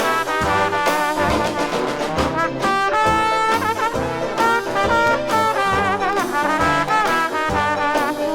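Dixieland jazz band playing, with brass lead lines weaving over a steady rhythm-section beat.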